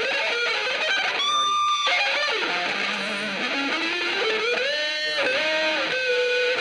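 Electric guitar playing an instrumental passage in a hardcore punk recording, its notes sliding and bending up and down in pitch, with no vocals.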